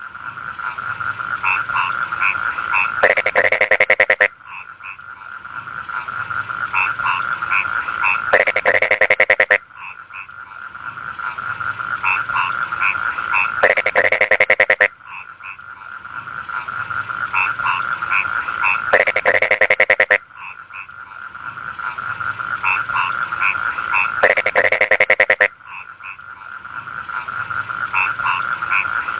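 Chorus of rice-field frogs: a steady trilling din with short scattered calls, broken about every five seconds by a loud, rapid run of pulsed croaks lasting about a second.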